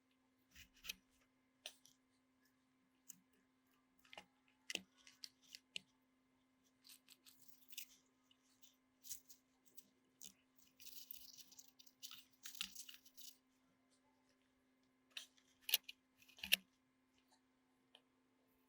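Faint scattered clicks, taps and short scrapes of small tools and parts being handled at a workbench, over a steady low hum. A longer rustling scrape comes around the middle, and two sharper clicks come near the end.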